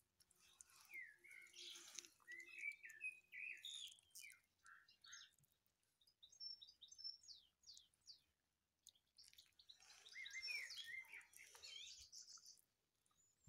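Faint birdsong: clusters of quick chirping, warbling notes in the first few seconds and again about ten seconds in, with thinner high chirps between.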